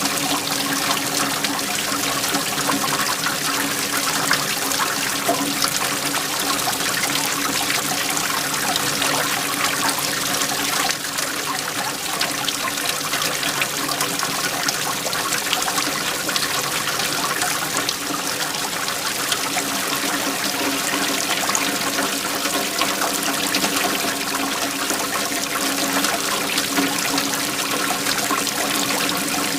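Waterfall: water flowing and splashing steadily, with a slight dip in level about eleven seconds in.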